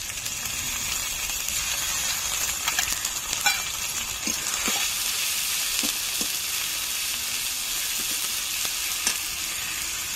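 Spice masala with freshly added chilli and cumin pastes sizzling in hot oil in a pan, stirred with a spatula that scrapes and taps the pan several times.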